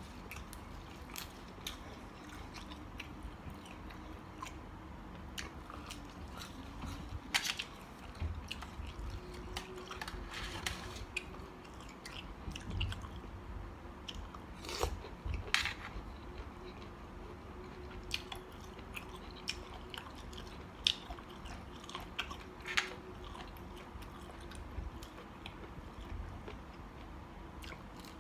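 A person chewing and biting mouthfuls of mixed seafood salad with shrimp and squid, with scattered short crunches and clicks.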